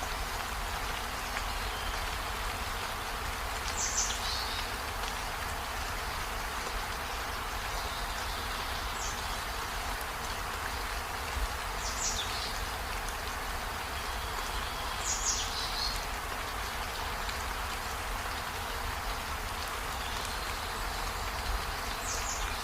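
Steady rain falling, an even hiss of drops. Five short, high calls that slide downward cut through it at intervals.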